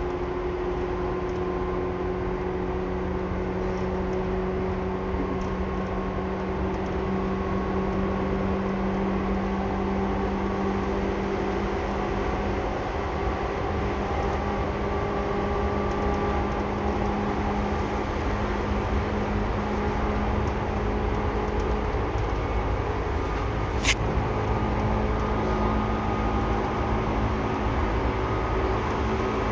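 Seibu 2000 series electric train heard from inside the car while running between stations: a steady rolling rumble with motor hum held at a few even pitches that shift slightly. One sharp click sounds late on.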